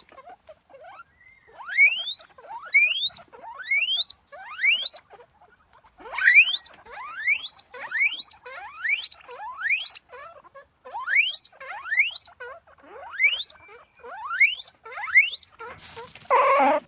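An animal giving a long series of short, high squeals, each rising steeply in pitch, about one or two a second with two brief pauses. A short rough noise follows near the end.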